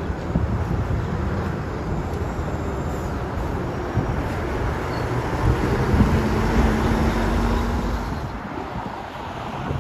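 Heavy truck driving past, its diesel engine and tyre noise running steadily, loudest a little past the middle.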